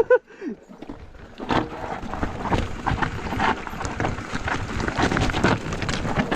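Mountain bike clattering over a rough, rocky trail: a rapid, irregular run of knocks and rattles that starts about a second and a half in.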